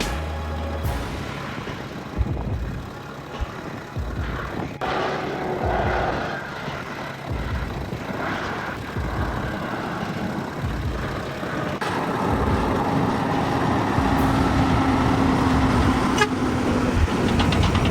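Heavy vehicle engines running, with a horn sounding steadily for about four seconds in the second half.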